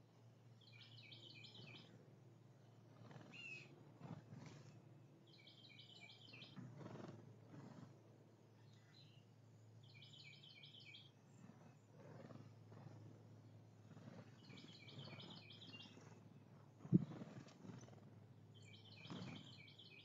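A songbird repeating the same short, clustered phrase of notes about every four seconds, faint over a low background rumble. About seventeen seconds in there is a single dull thump, the loudest sound here.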